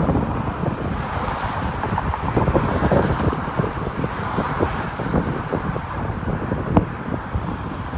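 Steady rush of a C-130 Hercules's four turboprop engines as the aircraft comes in to land, with wind buffeting the microphone in frequent short knocks.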